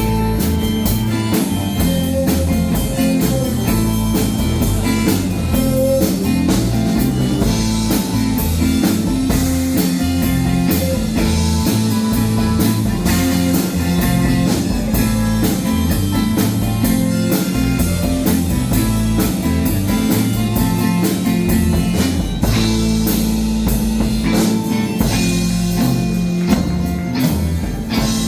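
A band playing blues rock, with guitar and a drum kit keeping a steady beat.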